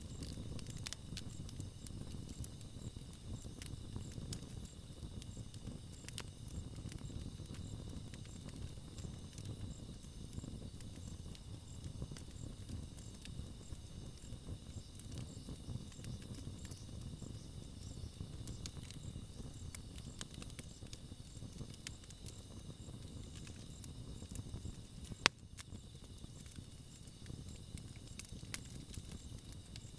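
Wood campfire burning with a low steady rumble and scattered small crackles and pops, and one sharp loud pop about 25 seconds in.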